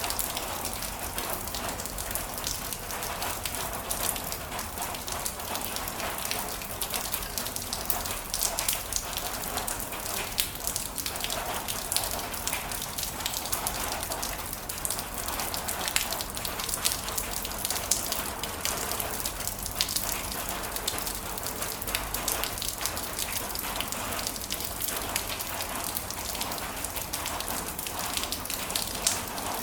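Heavy rain falling steadily, with a dense patter of individual drops striking a hard surface.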